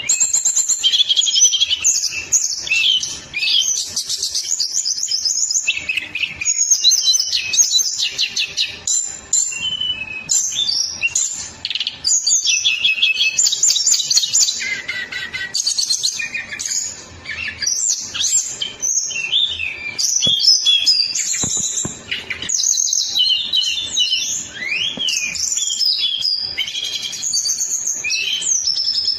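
Songbird singing a fast, dense, almost unbroken run of high chirps, rapid trills and sweeping notes: a 'speed rapat' masteran song recording used to train caged songbirds.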